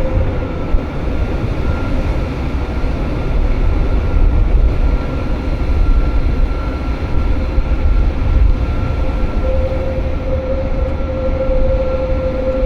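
Jungfrau Railway electric rack train running: a steady, loud low rumble with a steady motor whine on top, which swells again near the end.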